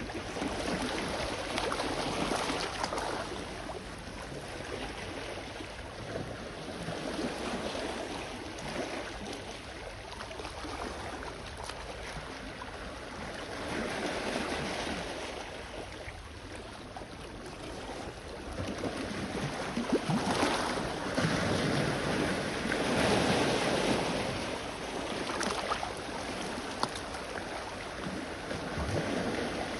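Sea waves washing onto the shore, swelling and ebbing every few seconds, with the biggest surges about two-thirds of the way through.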